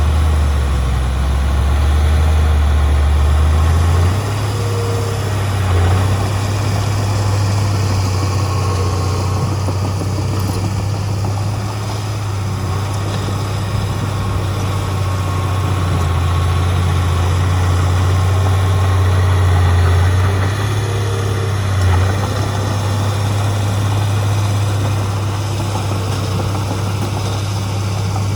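Heavy diesel machinery engine running steadily, a deep drone that shifts in pitch a few times as the throttle changes.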